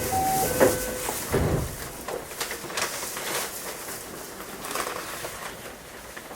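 Clicks, knocks and a few brief steady tones inside a train car, with no rising or falling traction-motor whine.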